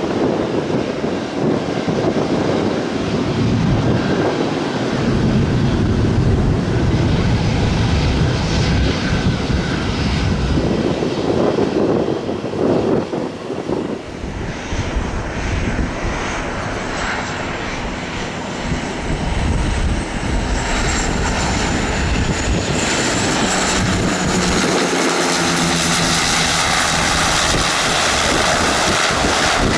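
Aircraft engines running steadily, with a thin high-pitched whine that wavers up and down from about halfway through.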